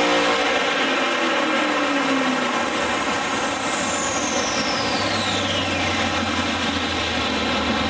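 Cammed 6.0-litre LS2 V8 on a chassis dyno coming off a full-throttle pull: the engine note falls away over the first couple of seconds while a high whine slides down in pitch as the rollers and wheels coast down, then the engine settles to a low, steady idle about five seconds in. A steady rushing noise runs underneath.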